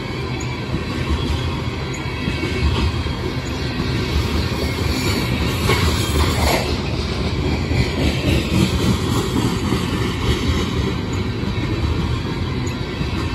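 Coal train's open-top gondola cars rolling past at close range: a steady rumble and clatter of steel wheels on the rails.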